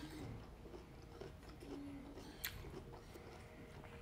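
Faint chewing of crisp, unripe green mango, with a single sharp click about two and a half seconds in.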